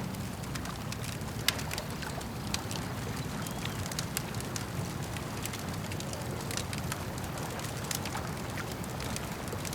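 Campfire crackling, with sharp pops and snaps scattered irregularly, one louder pop about a second and a half in, over a steady low rumble of lapping lake water.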